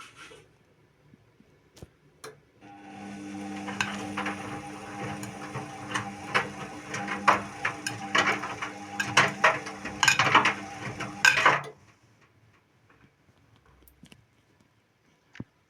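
Indesit WIU 81 washing machine's drum turning during the wash, with a steady motor hum and irregular clicks and knocks. It starts a few seconds in, runs for about nine seconds, then stops abruptly.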